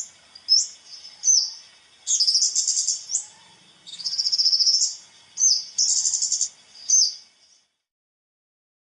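Talok'an, a small wild songbird, calling with high, sharp single chirps alternating with rapid buzzy trills about a second long. It stops shortly before the end.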